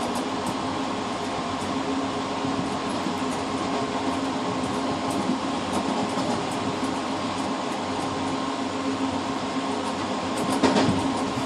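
Passenger train running along the track, heard from inside the rear driver's cab of its last car: a steady rumble with a constant hum and faint scattered clicks, then a few sharper rail-joint clacks near the end.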